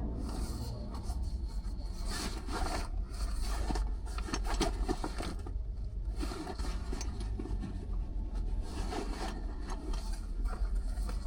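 Car driving on city streets: a steady low engine-and-road rumble with irregular scraping and rubbing noises over it.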